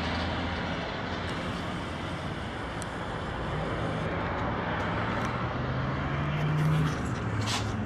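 A motor vehicle's engine running with road noise, its low tone rising slowly in pitch over the second half.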